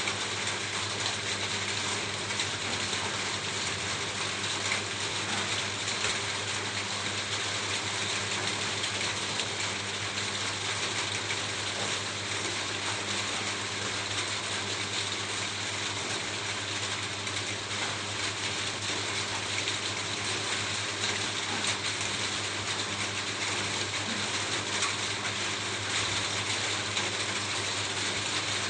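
Steady rain falling on a roof: a dense, even patter of countless small drop impacts, with no let-up.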